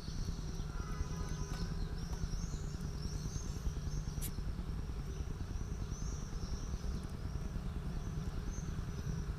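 Many short, high bird calls repeat over a steady low rumble.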